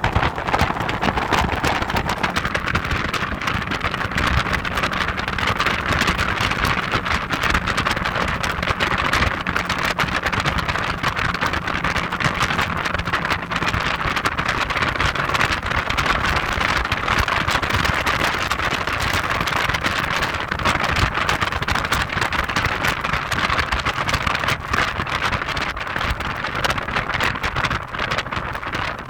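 Heavy wind buffeting on the microphone over the steady running and road noise of an Audi TT driving along.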